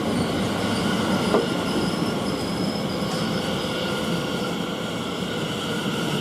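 Two coupled Greater Anglia Class 720 electric multiple units running into the platform, a steady rumble of wheels on rail with thin, high-pitched squealing or whining tones held over it.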